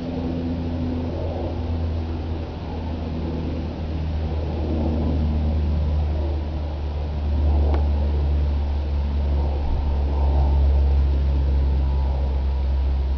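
Blizzard wind buffeting the microphone: a loud low rumble that rises and falls in gusts and grows stronger about halfway through.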